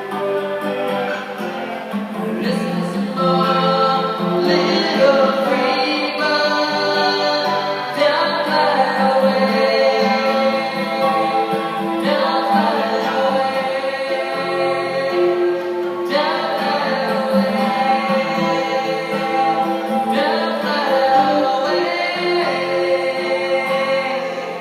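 Music: several voices singing together in sustained, choir-like harmony, with the chords changing about every four seconds.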